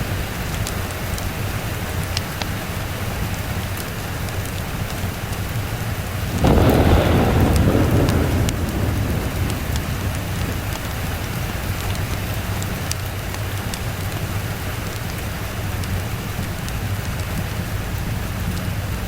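Steady rain with a clap of thunder that breaks suddenly about six seconds in and rumbles away over the next couple of seconds.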